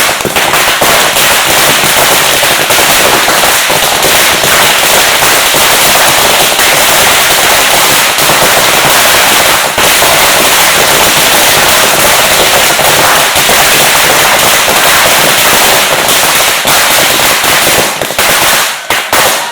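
Firecrackers going off in a dense, rapid barrage of cracks, very loud, thinning to a few separate bangs near the end.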